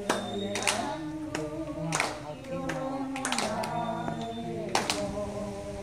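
A group of elderly performers singing together in unison, with hand claps keeping the beat.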